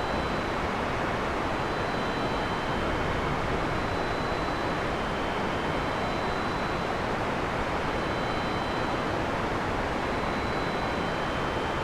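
Heavy rain falling steadily: an even, unbroken hiss with no thunder, and faint high thin tones fading in and out above it.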